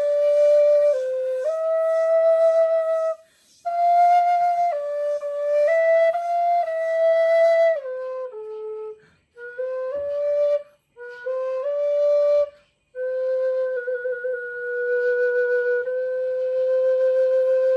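Solo flute playing a slow melody of held notes, with short breaks between phrases, ending on one long sustained low note.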